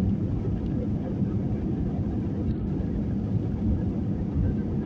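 Steady low rumbling cabin noise of an Airbus A320 airliner.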